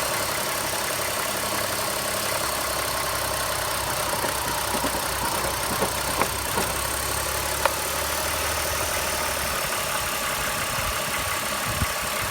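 BMW M54B22 2.2-litre inline-six engine idling steadily, with a few short clicks around the middle. It runs without its earlier strange noise, the spark plugs having been refitted and tightened past the specified torque.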